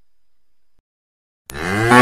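Near silence for about a second and a half, then a cow starts a loud, deep moo near the end.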